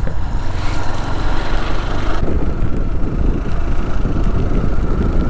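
Motorcycle engine running while riding, with wind rushing over the microphone; the high hiss of the wind eases about two seconds in.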